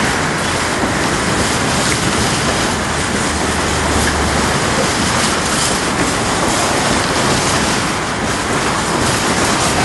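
Covered freight wagons of a long freight train rolling past, a steady noise of steel wheels running on the rails.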